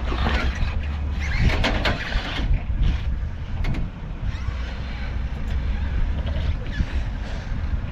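Off-road truck's engine running at low revs on a rock obstacle, with several sharp clicks and knocks in the first few seconds.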